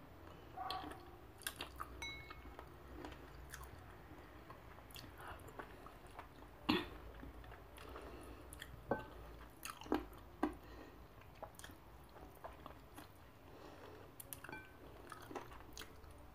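A person chewing and biting chicken feet close to the microphone: soft, wet mouth sounds broken by irregular smacks and clicks, a few sharper ones around the middle.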